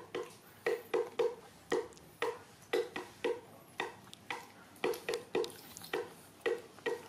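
Wet chewing and mouth smacking of someone eating soft custard apple: short sharp smacks at about two a second, irregular.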